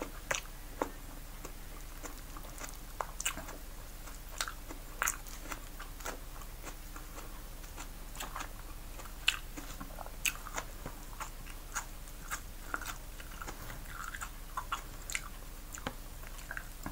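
A person chewing and eating steamed fish picked apart by hand, with irregular wet mouth clicks and smacks over a faint steady hum.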